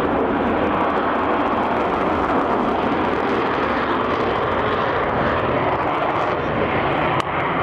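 F-16 fighter's single turbofan jet engine flying past: a steady, loud, broad rumble.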